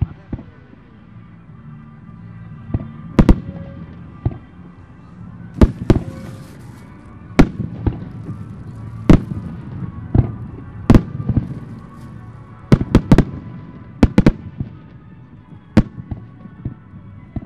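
Aerial fireworks display: many sharp shell bursts at uneven intervals, some in quick pairs, with a brief hiss about six seconds in.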